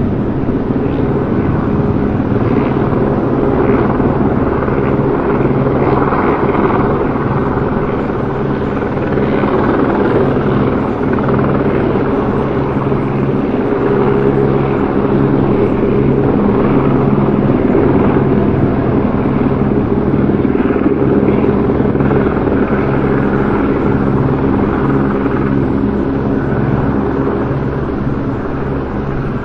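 Helicopter rotor and engine running steadily, a continuous loud drone with a constant low pitch.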